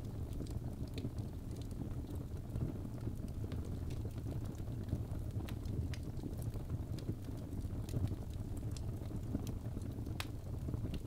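Birch logs burning in a fireplace: scattered sharp crackles and pops over a steady low rumble of the flames, with one stronger pop near the end.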